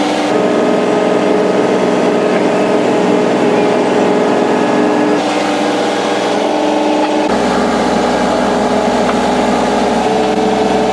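Engine of the hydraulic pier-driving equipment running steadily under load at a constant pitch, its low end growing heavier about seven seconds in.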